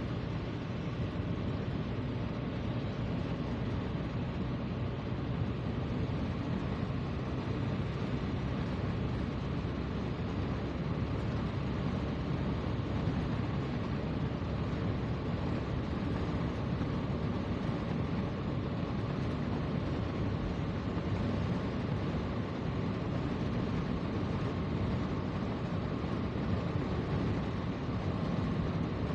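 Steady rumble of a vehicle on the move: engine hum and road noise, even throughout.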